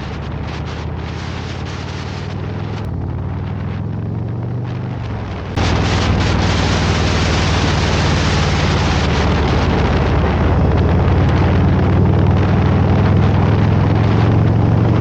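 Harley-Davidson Road Glide's V-twin running at riding speed, with wind rushing over the microphone. The sound gets suddenly louder about five and a half seconds in.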